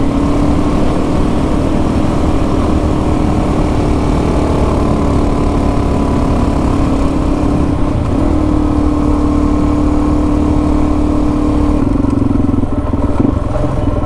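Adventure motorcycle engine running at a steady cruise, holding an even pitch with a brief dip about eight seconds in.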